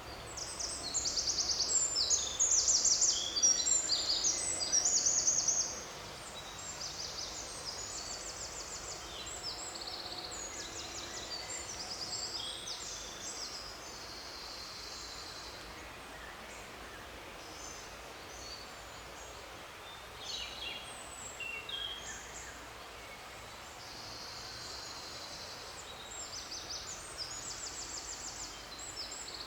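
Several songbirds singing, with rapid high-pitched trills and chirps over a faint steady forest background. The singing is loudest and busiest for the first six seconds, then thins out to scattered phrases.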